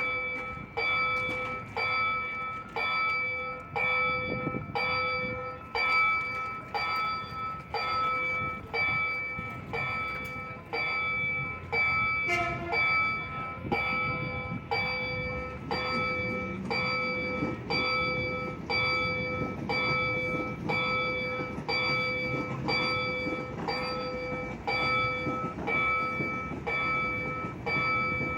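Railroad level-crossing warning bell ringing with evenly repeated strikes, about one and a half a second, each ringing on. A low rumble builds under it in the second half as a train approaches.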